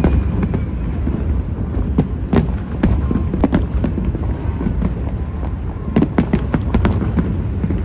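Aerial fireworks going off: a continuous low rumble of bursts with sharp cracks. The cracks come in quick clusters about two to three and a half seconds in and again around six to seven seconds in.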